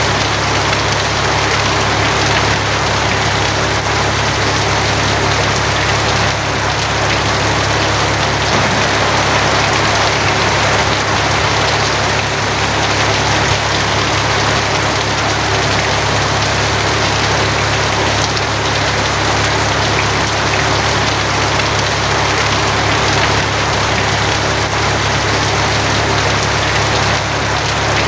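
Steady heavy rain drumming on a tin roof, an even dense hiss that does not let up, with a steady low hum underneath.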